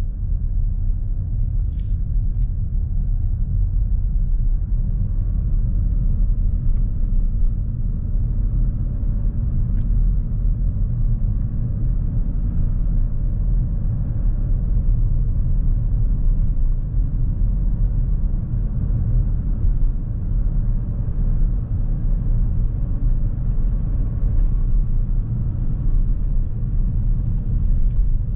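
Steady low rumble of road and tyre noise inside the cabin of a Lexus NX350h hybrid SUV while driving.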